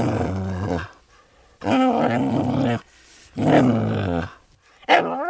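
A dog giving three long, deep calls of about a second each, then a shorter, higher call that wavers upward near the end.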